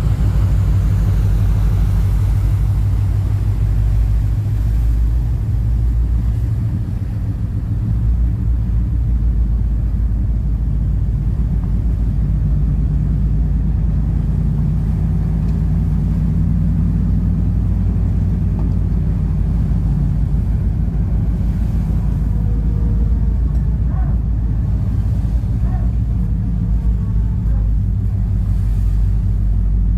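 Steady low engine rumble running evenly, with a deep drone underneath.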